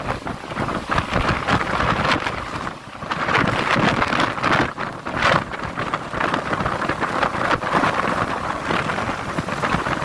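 Typhoon rain pouring down in strong gusting wind, the noise swelling and easing with the gusts, loudest a few seconds in, with a low rumble of wind on the microphone.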